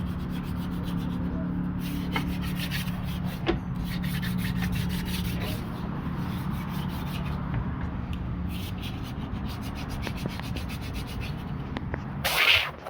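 Quick repeated rubbing or scraping strokes on a hard surface, over a steady low machine hum. Near the end comes a short, loud burst of hiss.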